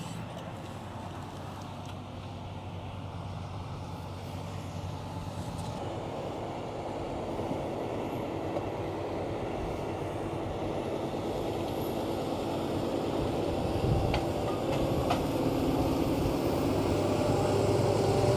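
Fendt 936 Vario tractor running steadily with its implements, growing louder as it comes closer; two short sharp knocks near the end.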